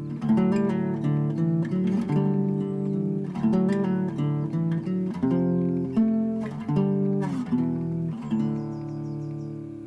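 Background music: strummed acoustic guitar chords, each a bright strum that rings on, changing chord about every second and settling into one held chord near the end.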